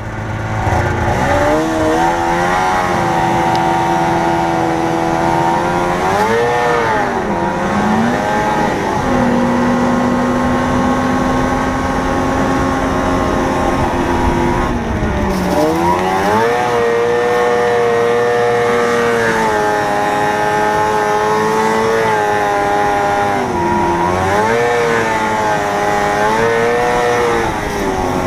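A 1980 Ski-Doo Blizzard 7500 snowmobile's two-stroke engine running under way. Its pitch climbs, holds steady for stretches, and drops off and climbs again several times as the throttle is eased and opened. The engine is running well.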